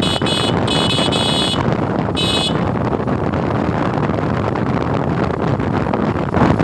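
Wind and road noise of a motorcycle ride, with a vehicle horn honking in quick repeated beeps for the first second and a half and once more briefly about two seconds in.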